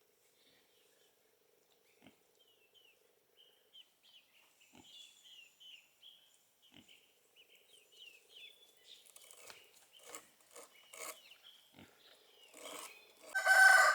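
Pigs grunting, sparse at first and busier in the second half, over light high chirping. A rooster starts crowing loudly just before the end.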